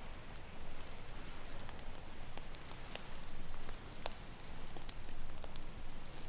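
Campfire crackling, with scattered sharp pops, over a steady wash of ocean waves that swells a little about three seconds in and again near the end.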